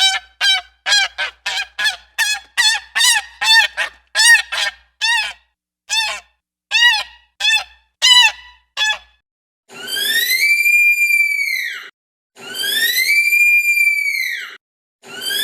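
Animal calls: a quick run of about twenty short honking calls, slowing and thinning out towards the middle. After a break come three long calls, each about two seconds, that rise and then fall in pitch.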